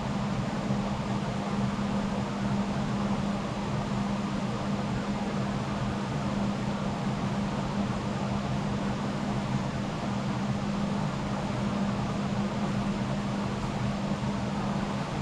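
Steady low mechanical hum with a constant drone that never changes.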